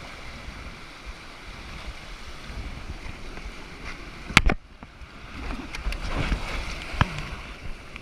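Rushing water and wind buffeting the microphone as a kayak runs moving water. A sharp knock about four seconds in is the loudest sound, and a smaller knock comes near the end.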